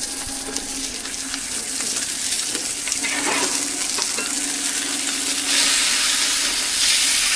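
Cakes frying on a hot griddle or pan, a steady sizzling hiss that grows louder and brighter about five seconds in, over a steady low hum.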